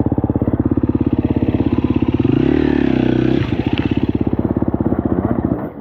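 KTM 250 SX-F dirt bike's single-cylinder four-stroke engine running at low revs with even firing pulses. It revs up briefly about two seconds in and settles back down about a second later.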